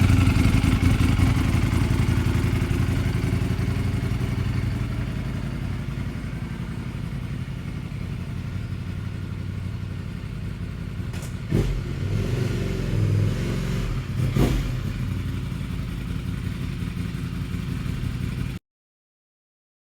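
Ducati Streetfighter V4's 1103 cc V4 engine idling through a Yoshimura exhaust shortly after a cold start, its sound easing down over the first several seconds and then running steadily. Two short knocks come through about twelve and fourteen seconds in, and the sound cuts off near the end.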